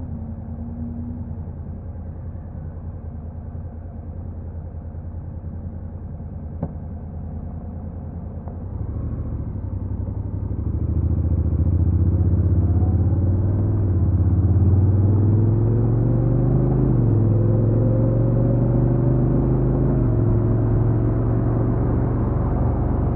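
Honda NC750X's parallel-twin engine with its stock exhaust, ticking over at a steady low idle, then pulling away about nine seconds in. It gets louder and the pitch climbs, dropping back at each of two upshifts.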